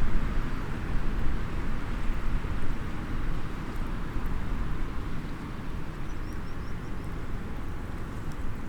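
Wood fire in a small SOTO mini hexagonal fire pit, a few faint crackles heard over a steady low outdoor rumble.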